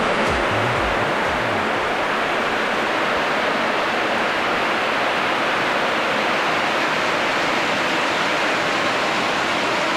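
Heavy tropical rain pouring down under a corrugated metal roof, a dense, steady hiss that does not let up.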